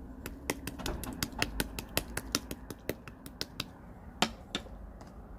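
Translucent yellow slime being squeezed and played with, giving a quick run of sharp clicks and pops, about five or six a second, then two more pops near the end, the first of them the loudest.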